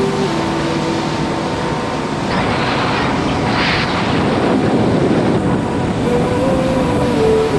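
Speedboat running at speed over open sea: a steady engine and rushing wind and water, with a surge of spray hiss a few seconds in.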